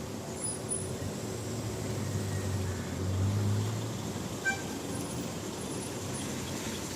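Steady rain with a motor vehicle passing, its low engine hum swelling about two to four seconds in; a single short click midway.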